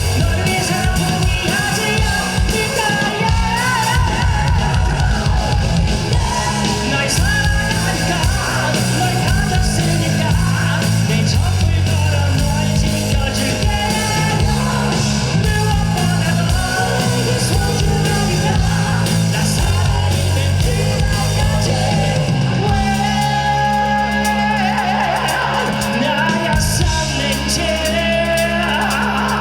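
Live rock band playing loudly with a singer: drums, bass and electric guitar under the vocals. In the last several seconds the band holds long sustained chords.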